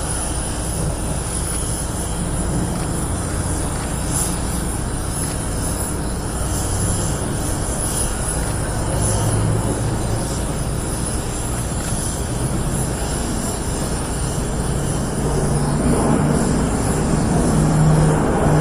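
Airbus A400M turboprop airlifter flying a display, its engines making a loud, steady drone that grows louder and stronger in its low hum over the last few seconds as the aircraft comes nearer.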